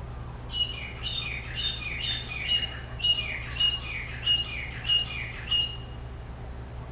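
A bird calling a run of about eleven loud, evenly repeated notes, about two a second, each a clear tone with a falling slur. The series stops about a second before the end.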